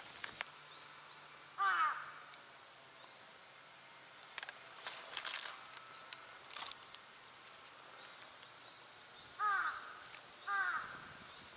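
A crow cawing three times: one call about two seconds in, then two more close together near the end. A few sharp clicks fall in between.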